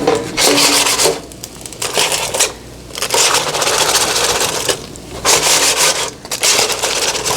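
Roasted red potato and onion pieces being moved around in an air fryer basket, rattling and scraping against it in about five bursts.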